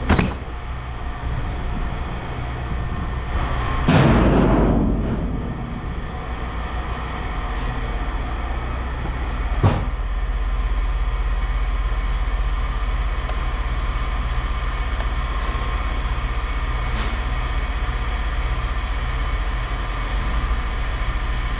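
Scrap metal pieces thrown down onto a pile: a sharp clank at the start, a loud metallic crash about four seconds in that rings away over a second or so, and a single short knock near ten seconds in, all over a steady low engine hum.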